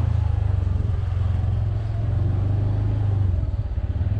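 Steady low rumble of a motor vehicle's engine running at an even pace.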